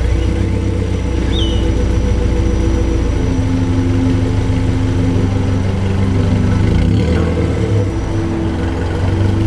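Honda S2000's four-cylinder engine running, its note shifting in steps about three and seven seconds in as the revs change.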